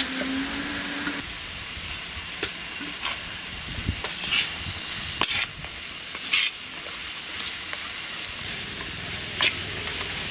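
Food sizzling steadily in hot oil in a cooking pan, with a few sharp clinks of a utensil.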